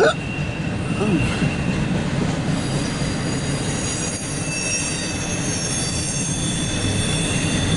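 Double-stack intermodal freight train rolling past, its steel wheels squealing in several thin, steady high tones over a continuous rumble.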